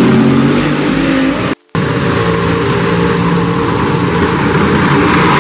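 Race car engine running loud, with the sound cutting out completely for a moment about a second and a half in.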